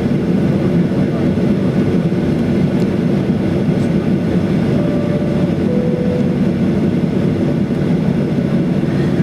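Steady cabin rumble inside a Ryanair Boeing 737-800 with its engines running, heard from a passenger seat. Two faint, brief tones can be heard near the middle.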